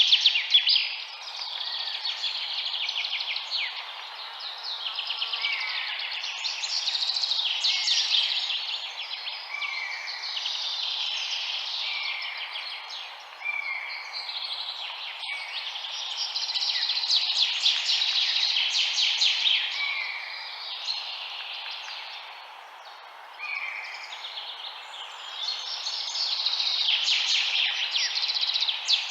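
Several songbirds chirping and trilling in a dense chorus, with a short repeated call recurring about once a second, over a steady background hiss.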